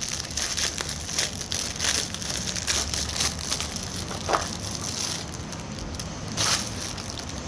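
Packaging being handled and opened by hand, with irregular crinkling and crackling throughout.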